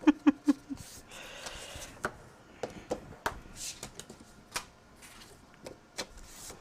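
Paper and cardstock being handled on a craft table: a soft rustle, then scattered light taps and clicks. A brief laugh opens it.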